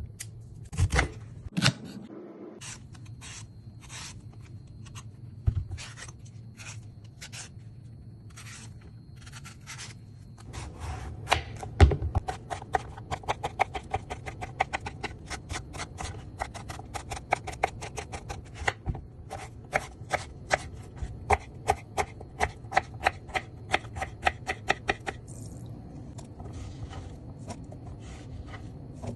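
Knife cutting raw banana on a cutting board: scattered single cuts at first, then about ten seconds in a fast steady run of chopping strokes, about four a second, which stops a few seconds before the end.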